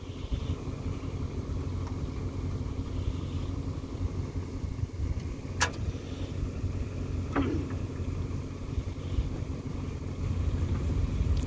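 A vehicle engine idling steadily, with two sharp clicks or knocks, one about halfway through and one a couple of seconds later.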